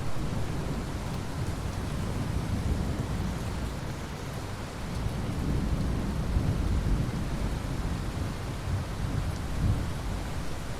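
Steady rain with a deep rolling rumble of thunder underneath, which swells louder about halfway through.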